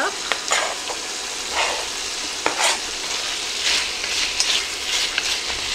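Chicken pieces and chopped onion sizzling in butter and oil in a Dutch oven, with a steady frying hiss, while a wooden spoon stirs them and scrapes against the pot now and then.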